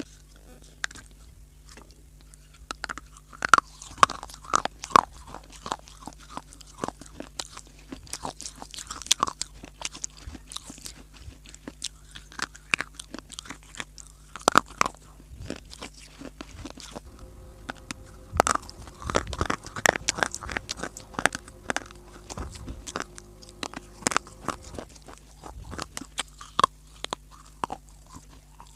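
Close-miked biting and chewing of dry, brittle clay (mitti), a steady run of irregular sharp crunches with a few louder bites.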